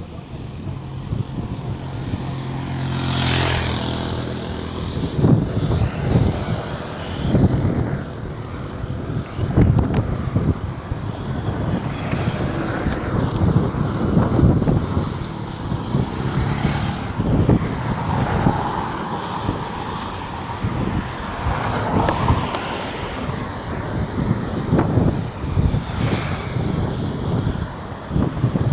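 Road traffic on a highway: vehicles pass one after another with a rushing swish of tyres and air. One engine hum rises and fades over the first few seconds. Irregular low rumbles and gusts run throughout.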